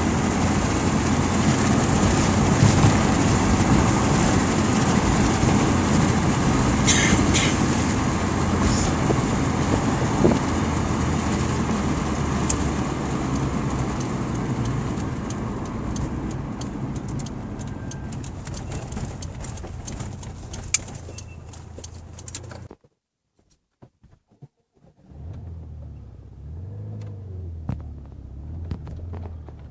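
Moving car's road and engine noise, an even rumble with hiss, heard from inside the car. It grows gradually quieter, cuts out almost completely for about two seconds near the end, then returns as a quieter low hum.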